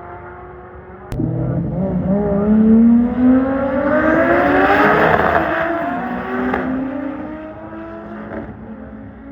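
Street car engine going to full throttle about a second in. Its pitch rises steadily for about four seconds under hard acceleration, then fades as the car pulls away.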